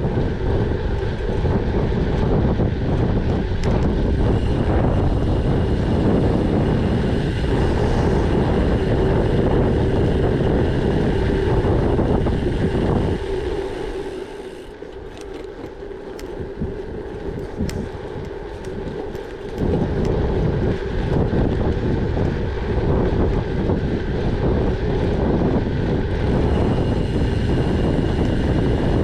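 Wind buffeting the microphone over the running noise of a gravel bike's tyres and drivetrain. About halfway through the wind rumble drops away for several seconds, leaving the lighter tyre and bike noise with a few sharp ticks, then the buffeting returns.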